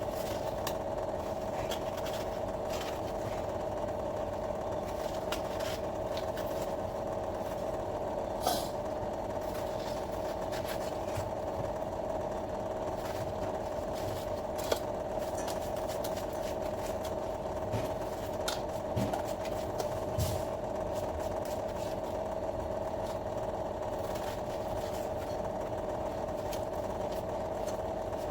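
A steady mechanical hum with one constant tone, with scattered light clicks and knocks on top.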